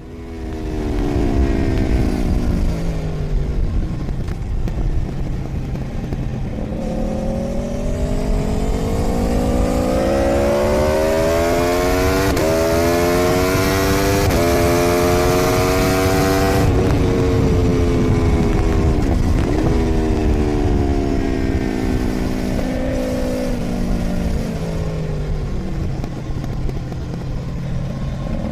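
Onboard sound of a 2013 Aprilia Tuono V4's V4 engine lapping a racetrack. The revs climb hard through the gears with two quick upshifts, with wind rushing past at speed. Then the revs fall under braking with a downshift blip, and build and fall again through the next corners.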